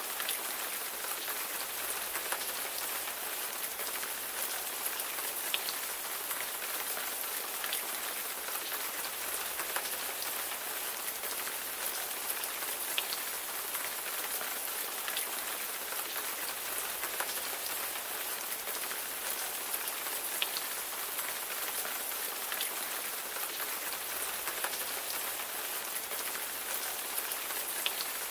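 Steady rain falling on a surface, an even hiss with scattered individual drops ticking sharply through it.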